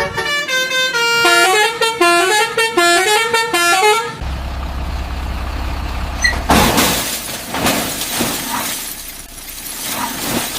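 Multi-tone 'telolet basuri' bus air horn playing a stepping melody of short notes. Near the middle it stops and gives way to a low steady rumble, followed by several loud hissing bursts.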